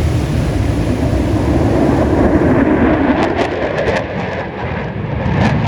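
Aircraft flying past: a loud engine rumble that swells to a peak about two to three seconds in, then thins out, with a few short sharp crackles after the peak.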